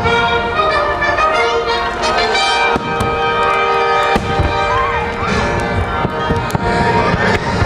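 Fireworks show soundtrack music playing in sustained chords, with several sharp fireworks bangs breaking through about three, four and seven and a half seconds in.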